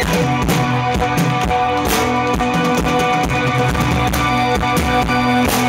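Live rock band playing: guitars over a drum kit with a steady beat.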